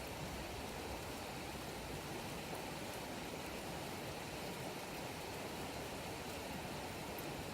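Wood campfire burning: a steady rushing hiss with a few faint crackles.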